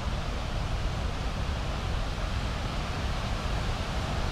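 Steady rush of a river waterfall, an even hiss with a heavy low rumble and no breaks.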